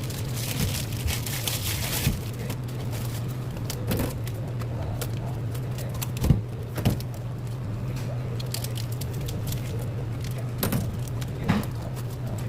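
Tableware clinking: half a dozen short, scattered clicks and knocks, like a spoon or chopsticks against a soup bowl, over a steady low hum.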